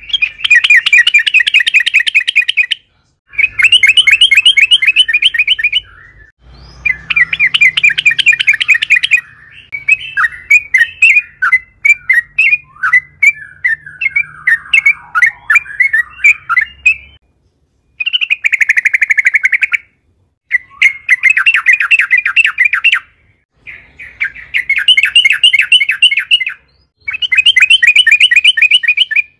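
Yellow-vented bulbul calling in repeated bursts of fast chattering notes, each a couple of seconds long with short pauses between, and a looser, varied warbling run in the middle.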